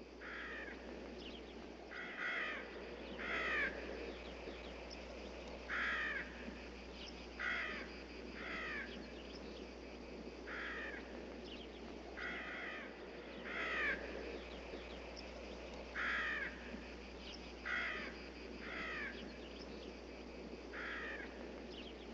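Faint bird calls: short calls repeated every one to two seconds, sometimes two in quick succession, over a low steady background hiss.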